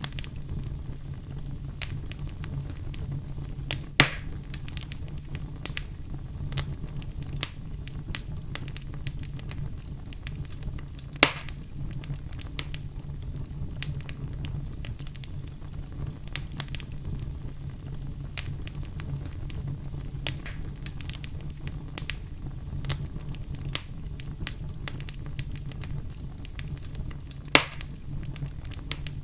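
Wood fire in a fireplace crackling steadily over a low rumble of flames, with frequent small snaps and three louder pops: about four seconds in, about eleven seconds in, and near the end.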